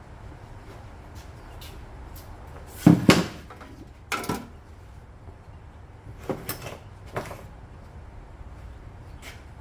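Several clunks and knocks of a small metal part being worked and bent in a workshop: a loud double knock about three seconds in, another a second later, then a few lighter knocks and some small clicks.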